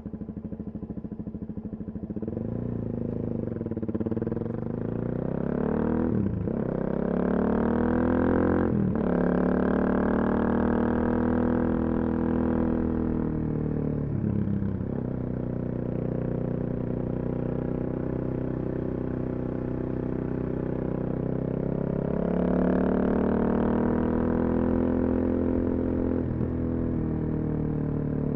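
Suzuki DR-Z400SM single-cylinder four-stroke with a full Yoshimura exhaust, running steadily for about two seconds, then pulling away and accelerating. Its note climbs and drops sharply several times as it shifts up through the gears.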